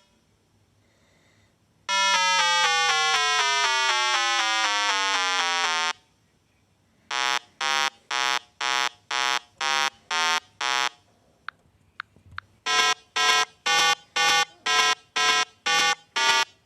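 Electronic buzzer sound effects for a concrete pump truck: a long buzzing tone that slowly falls in pitch, then two runs of repeated beeps at about two to three a second, like a warning alarm.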